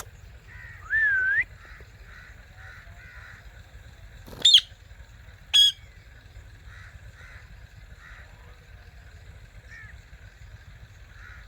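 Indian ringneck parakeets calling: a short gliding call about a second in, then two loud, sharp screeches about a second apart near the middle, with fainter short chirps between them.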